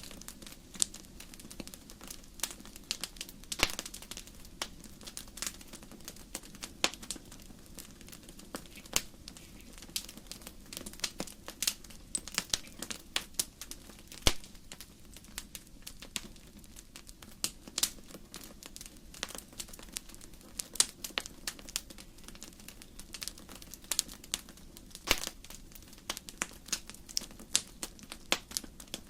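Wood fire crackling: many irregular sharp pops and snaps from burning logs, some louder than others, over a steady low background.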